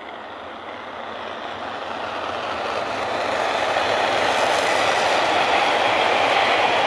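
High-speed passenger train approaching and passing at speed: a rush of wheel and air noise that grows steadily louder over the first four seconds, then holds at full strength as the coaches go by.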